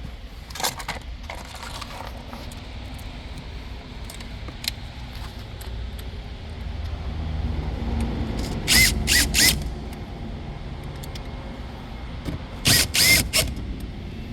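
The radio and plastic dash trim in the centre console are being refitted, with scattered clicks and knocks. Twice, at about nine and thirteen seconds, there is a quick run of three sharp, loud snaps or knocks.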